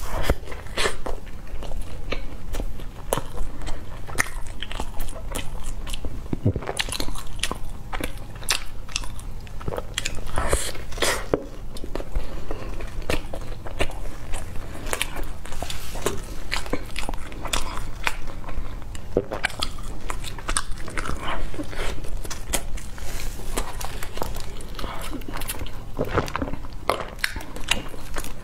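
Close-miked biting and chewing of crusty toasted bread: irregular crisp crunches, one after another.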